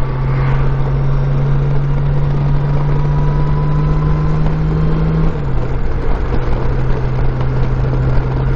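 Honda Gold Wing F6B's flat-six engine running at steady cruising speed under the rush of wind and road noise, its note dropping slightly about five seconds in as the throttle eases.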